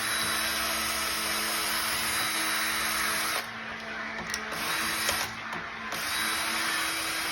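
Electric power drill running steadily, easing off briefly twice partway through.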